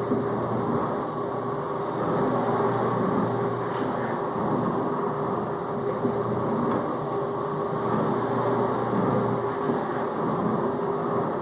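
Whirlpool dishwasher in its final-rinse circulation: the wash pump runs with a steady hum while water sprays and sloshes around inside the tub, swelling and easing slightly.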